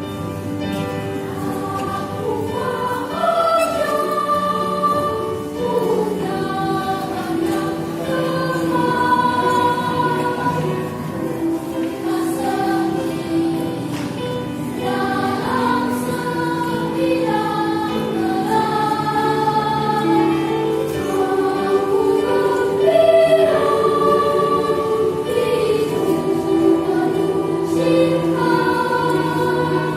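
Children and youth church choir singing a hymn together, in long held notes that move from pitch to pitch.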